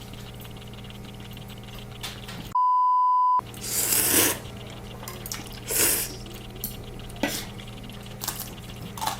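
A steady single-tone beep about a second long, dubbed in with all other sound cut out beneath it, like an edit bleep. After it come two loud noisy slurps of ramen noodles and a few short clicks of utensils against the bowl.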